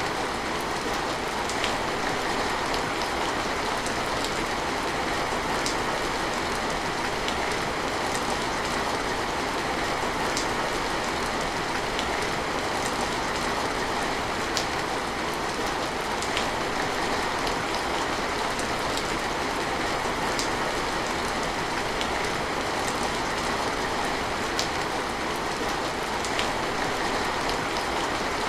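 Steady rain falling and pattering on surfaces, an even hiss with scattered individual drips ticking throughout.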